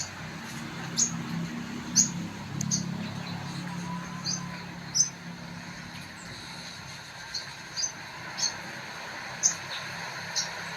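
White-rumped shama (murai batu) giving short, sharp, high chirps at irregular intervals, about one a second, over a faint low hum.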